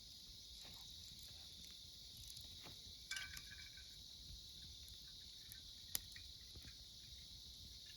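Autumn insects such as crickets chirring steadily in a high, even band, with faint crackles from a wood campfire: a short crackling cluster about three seconds in and one sharp pop about six seconds in.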